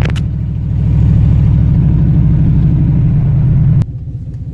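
Truck engine held at high revs under hard throttle during a burnout attempt, dipping briefly about half a second in, then dropping suddenly to idle near the end as the throttle is released.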